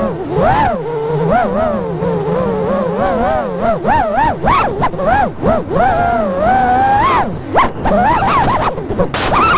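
Brushless motors of an FPV freestyle quadcopter whining, their pitch swooping up and down rapidly as the throttle is punched and chopped through manoeuvres.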